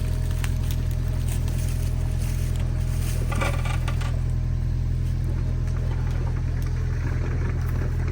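Compact excavator's diesel engine running steadily, with scattered sharp knocks and cracks and a louder cluster of them about three seconds in.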